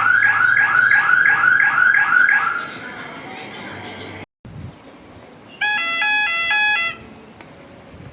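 Electronic alert of a Thai railway station's 'blue lamp' signal: a falling warble repeats about three times a second for about two and a half seconds. After a cut, a short chime of stepped electronic tones sounds for about a second just past the middle.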